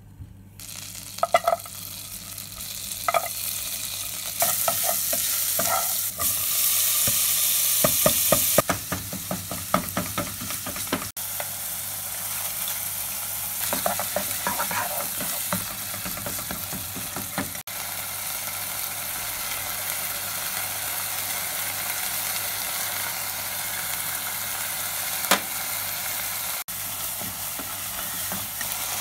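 Food frying in a pot with a spatula scraping and stirring: butter and aromatics first, then ground meat that sizzles loudest about five seconds in, then a steadier sizzle once tomato and spices are stirred in. The sound breaks off abruptly a few times where shots are cut together.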